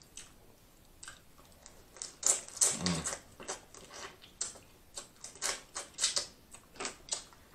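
Close-miked eating of sauce-dipped crab meat: wet chewing and lip-smacking clicks, irregular and quiet at first, then coming thick from about two seconds in.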